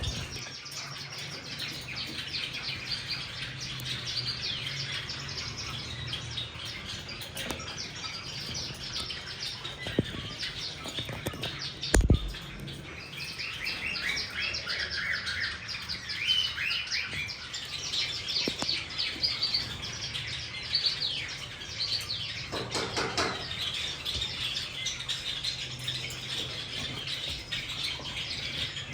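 Cockatiels chirping in a steady stream of short, rapid calls. A sharp thump sounds about twelve seconds in.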